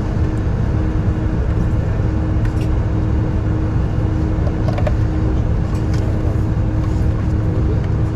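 Steady low rumble of a moving vehicle heard from inside, with a constant hum under it and a few faint clicks.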